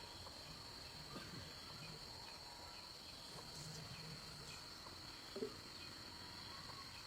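Steady, high-pitched chorus of insects, faint and continuous. A single short knock sounds about five and a half seconds in.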